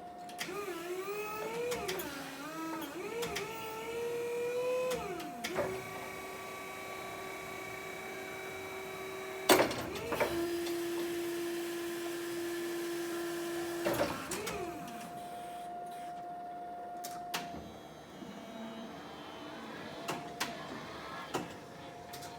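An electric motor or pump whining in several runs: first wavering up and down in pitch, then holding steady at different pitches. Sharp clicks sound as it starts and stops, over a steady faint hum.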